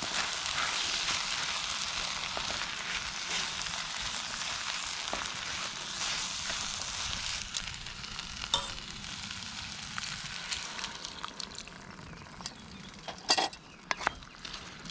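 Food sizzling as it fries in a pan, the sizzle dying down over the second half. A few sharp knocks sound near the end.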